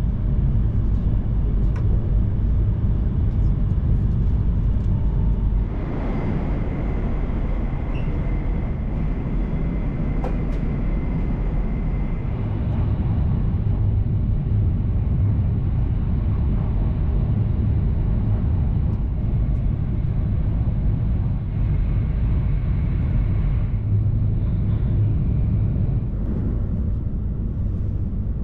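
Steady low rumble of an E2-series Shinkansen running at speed, heard inside the passenger cabin. A faint high whine comes and goes, and the sound changes abruptly about six seconds in.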